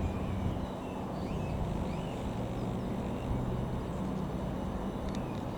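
Steady low drone of a distant engine, with small birds chirping now and then over it.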